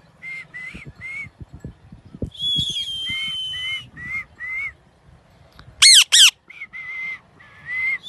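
Pet parrot calling: a string of short chirps, a long level whistle about two and a half seconds in, then two loud shrill squawks around six seconds in, followed by more short chirps.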